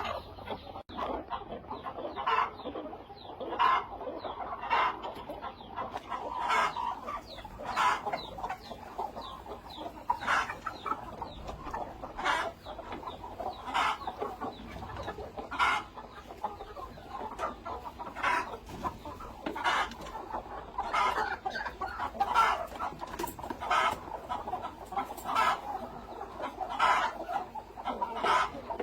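Chickens clucking, short calls repeated over and over.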